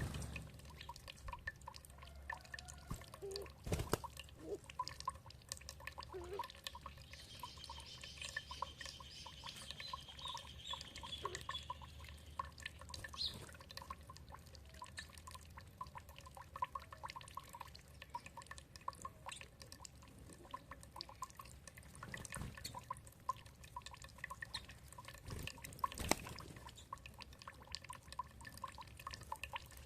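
Water dripping and trickling in a steady patter of small drops, with a few louder drops. About seven seconds in, a bird gives a rapid trill of short high notes lasting several seconds.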